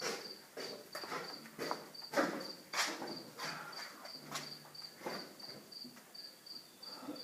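A cricket chirping steadily, about three short high chirps a second, with irregular knocks and clunks over it, the loudest about two and three seconds in.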